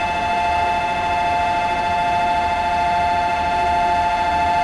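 Platform departure signal sounding before the train leaves: a steady electronic two-tone ringing held at one pitch, without a melody.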